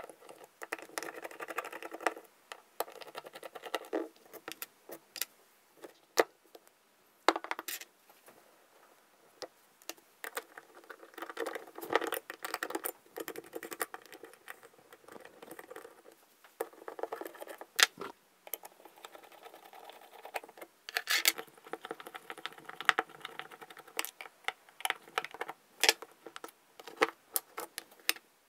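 Zenith 36 1V carburettor being dismantled by hand: small metal parts and a tool clicking and clinking against the zinc-alloy castings, with many sharp clicks and stretches of rubbing and scraping in between.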